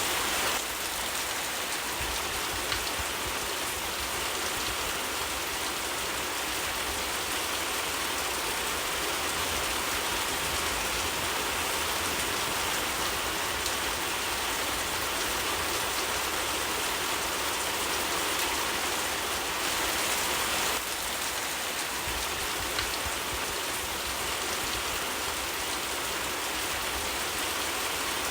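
Steady rainfall: a dense, even hiss of rain on surfaces.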